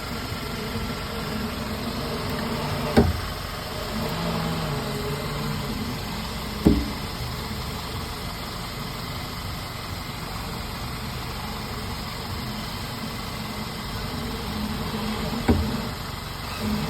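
Vehicle engine idling steadily, with a sharp clunk about three seconds in, another near seven seconds, and a third near the end.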